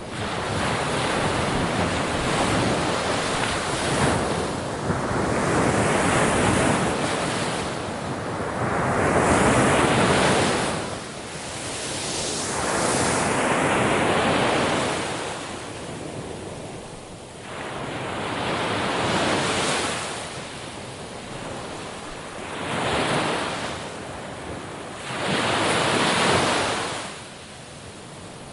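Ocean waves breaking on a shore: a continuous wash of surf that swells and ebbs, with a wave breaking every three to four seconds.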